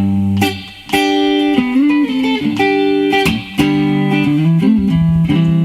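Instrumental music: a guitar picking a melody of single notes, some of them bent, over low sustained bass notes.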